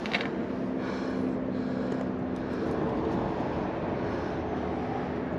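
A steady mechanical drone with a constant low hum and an even hiss, from a machine or engine running.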